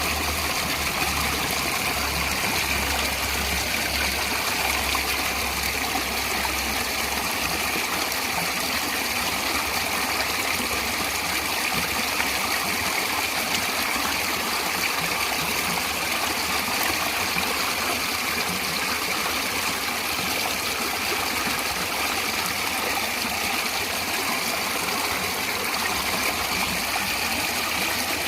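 Stream water running steadily with an even, unbroken rushing. A low rumble underneath stops about eight seconds in.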